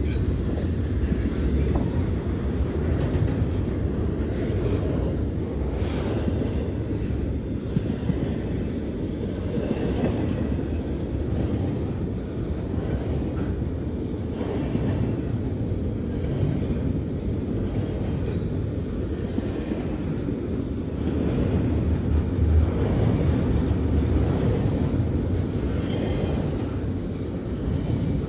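Double-stack intermodal well cars rolling past close by: a steady low rumble of steel wheels on the rails, with a few short sharp clanks along the way.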